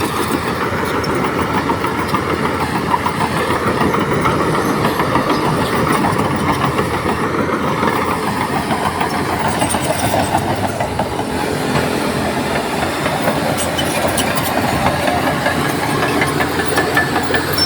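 Shantui crawler bulldozer working: its diesel engine runs steadily while its steel tracks clatter with a dense run of small clanks.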